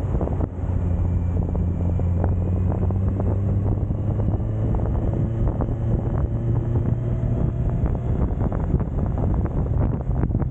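Suzuki GSX1250FA's inline-four engine running steadily while riding, its pitch climbing slightly in the middle, under heavy wind rush and buffeting on the microphone.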